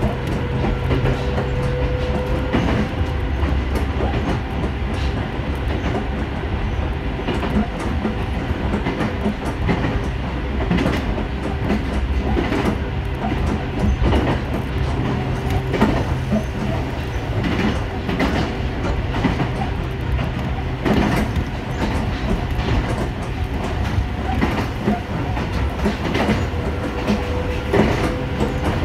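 Ohmi Railway electric train running along the line, heard from inside the front car: a steady rumble and motor hum with irregular clicks of the wheels over rail joints.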